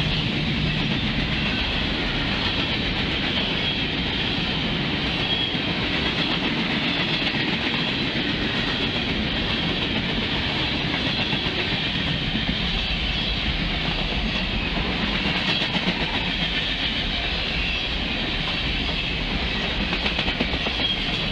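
Freight cars of a passing train rolling by at close range: a steady rumble of steel wheels on rail with the clickety-clack of wheels over rail joints.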